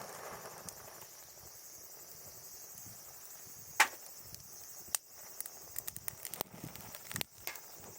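Wood fire crackling, with one sharp loud pop about four seconds in, another about a second later, then a run of irregular snaps and pops.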